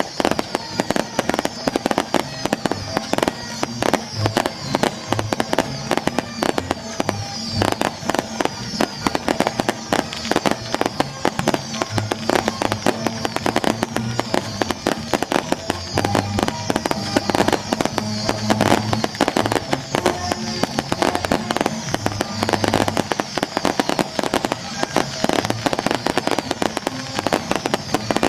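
Strings of firecrackers going off in a dense, continuous crackle of irregular bangs, with music playing underneath.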